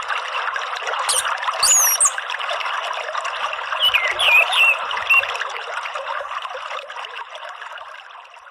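Steady trickling, running water, with a few short, high bird chirps and whistled pitch glides in the first half. The sound fades out toward the end.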